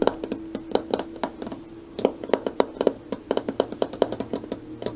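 A quick, irregular run of sharp clicks and taps, several a second, over a steady low hum.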